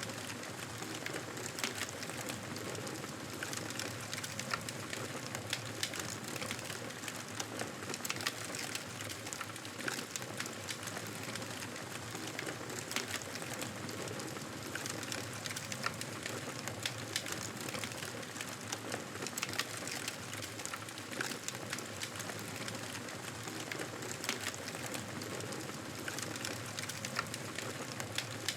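Fireplace fire crackling, with many small irregular pops and snaps over a steady hiss.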